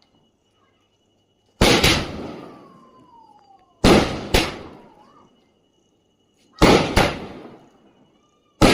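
Diwali firecrackers going off: sharp bangs, mostly in close pairs, about every two and a half seconds, each trailing off in an echo.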